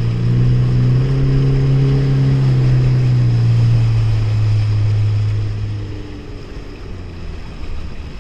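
Honda jet ski's four-stroke engine running under throttle with a steady drone, then easing off and falling away about five to six seconds in, leaving the wash of water and wind.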